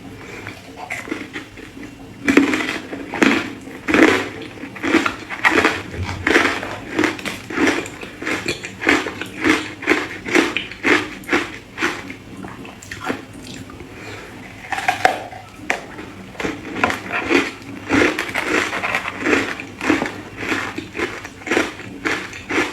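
Ice being bitten and chewed: repeated crisp crunches, roughly two a second, easing off for a few seconds past the middle and then picking up again.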